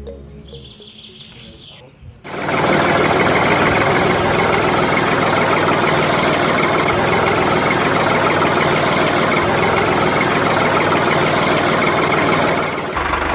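A small electric motor starts about two seconds in and runs steadily with a dense buzz, stopping just before the end.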